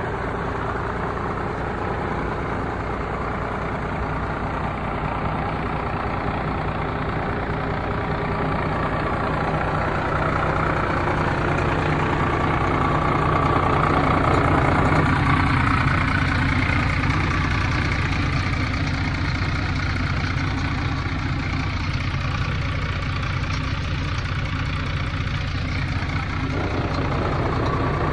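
Scania 113 H 360 truck's 11-litre straight-six diesel engine idling steadily, a little louder around the middle.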